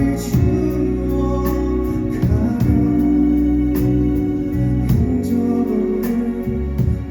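A live band playing a slow ballad passage without singing: sustained organ-like keyboard chords over bass, with regular drum and cymbal strikes keeping the beat.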